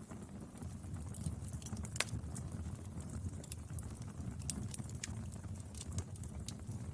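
Wood fire burning: a steady low rumble of flames with frequent sharp crackles and pops, one louder pop about two seconds in.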